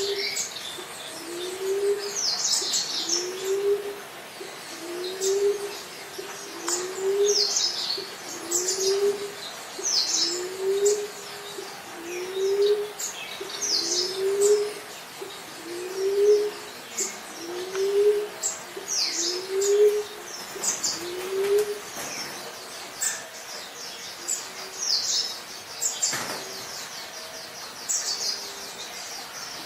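Emerald dove cooing: a low coo repeated about every second and a half, each note rising and then falling. The coos break off after about twenty seconds and one more comes near the end. Other birds chirp over it in quick, high bursts.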